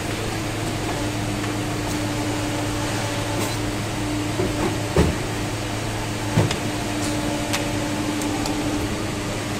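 Steady machine hum, an even tone that holds at one level, with a few short metallic knocks, the loudest about halfway through and another soon after.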